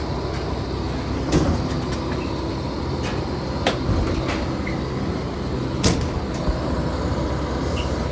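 Steady low engine rumble with a few sharp knocks, about a second and a half, four seconds and six seconds in.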